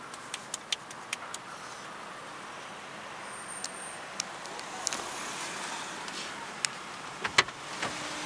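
Automatic car wash running, a steady hiss of spray and brushes, with scattered light clicks early on and a sharp knock near the end.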